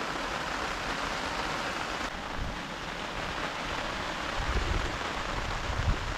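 Heavy rain falling steadily, an even hiss of drops; from about four seconds in a low rumble joins it.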